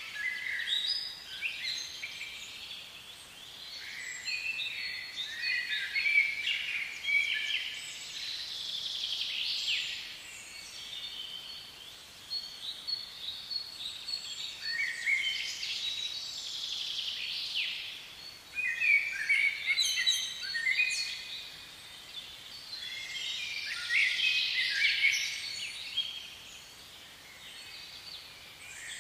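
Birdsong: quick, high chirps and trills that come in phrases a few seconds long, with short lulls between them.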